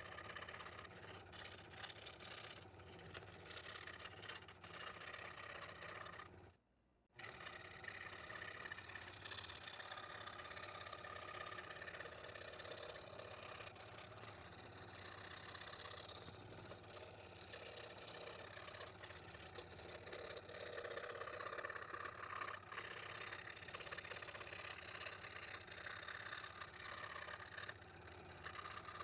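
Scroll saw running steadily, its blade cutting through thin wood, with a brief cut-out about seven seconds in.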